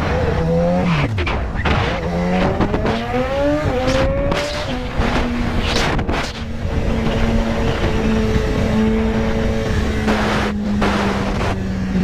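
Motorcycle engine accelerating up through the gears, its pitch rising and falling back at each shift over the first five seconds or so, then holding a steady cruising note under constant road and wind noise.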